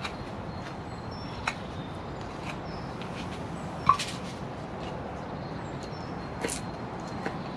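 Woodland birds calling in short high notes over a steady background hiss, with a few sharp knocks or clicks, the loudest about four seconds in.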